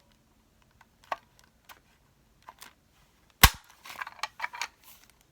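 A handheld circle paper punch snapping shut through paper to cut a thumb hole: one loud sharp snap about three and a half seconds in, with light clicks of handling before it and a cluster of small clicks and paper rustles just after.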